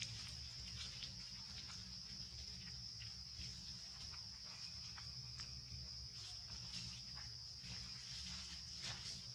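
Steady, high-pitched drone of insects such as crickets or cicadas, with faint scattered ticks and a low rumble underneath.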